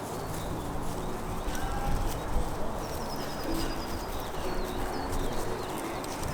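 A pigeon pecking seeds on a plywood feeder tray: irregular light taps over steady outdoor background noise, with a faint high bird call about three seconds in.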